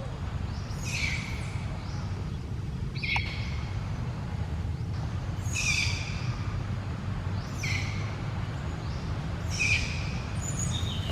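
A series of short high-pitched animal calls, each a quick downward sweep, repeated about every two seconds over a steady low rumble.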